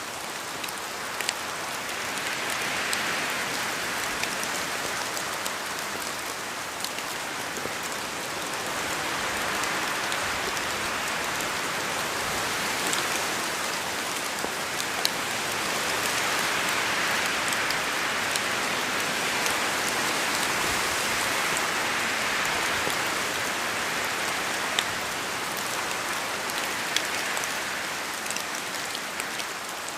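Steady rain falling in a forest, with a dense hiss that swells and eases slowly over several seconds and many separate drops ticking on leaves and surfaces.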